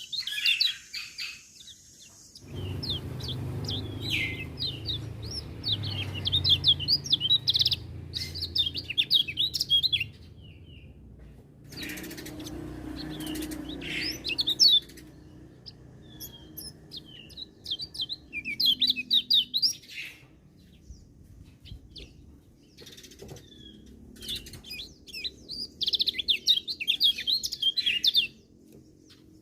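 Kecial kuning, a small white-eye, singing fast twittering phrases of high chirps in several bursts of a few seconds each, with short pauses between them. A low background rumble sits under some of the bursts.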